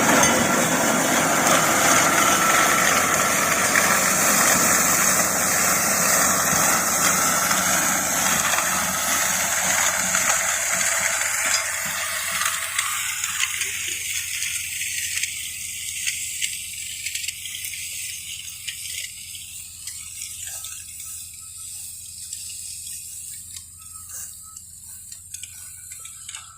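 Tractor-driven mulcher and its 55 hp tractor running, a loud steady machine noise that fades away gradually over the second half.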